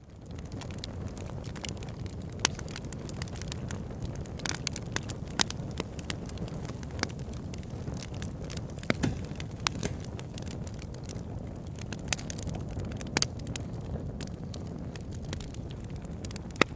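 Wood fire burning in a fireplace: a steady low rumble of flames with irregular crackles and sharp pops from the burning logs. The sound fades in quickly at the start.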